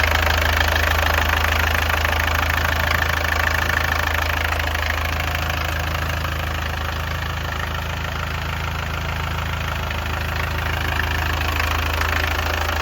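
1968 Mercedes 200D's four-cylinder diesel engine idling steadily shortly after a cold start.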